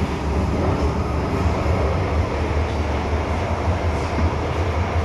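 MTR M-Train electric multiple unit running underground on the Island Line, heard from on board: a steady low rumble of wheels on rail and traction equipment.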